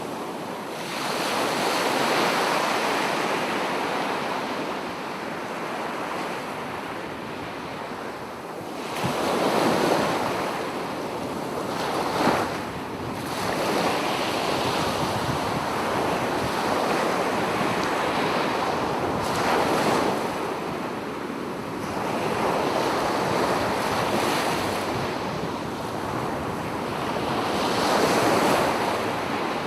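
Sea waves breaking and washing up a beach, the surf swelling and easing every few seconds, with one sharper crash about twelve seconds in.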